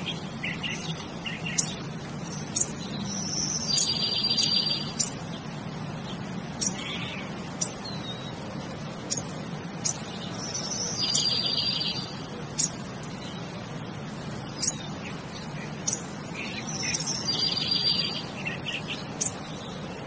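Birds chirping: scattered short, high chirps, and a longer burst of calls that comes back about every seven seconds, over a faint steady hum.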